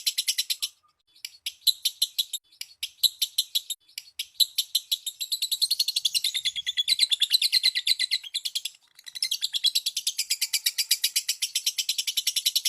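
Lovebird chattering in rapid trains of sharp, high chirps, about ten a second, broken by a couple of short pauses: the long 'ngekek' trill used as a lure call to set other lovebirds singing.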